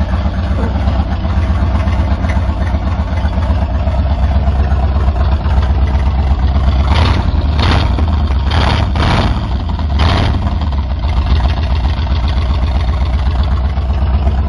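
A 1977 Chevrolet C10's 350 small-block V8 idling steadily after sitting unstarted for years. Five short hisses come over it between about seven and ten seconds in.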